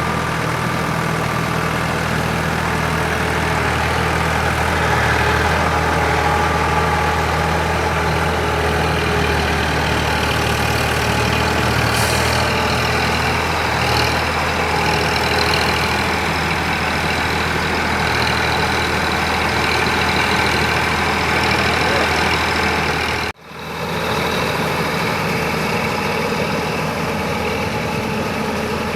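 Sonalika DI 47 RX tractor's diesel engine running steadily while working in paddy-field mud, with a constant low hum. The sound cuts out for an instant about two-thirds of the way through, then resumes.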